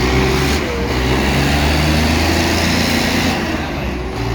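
Diesel tractor engines running steadily under heavy load, pulling against each other in a tractor tug-of-war; a loud, steady low drone.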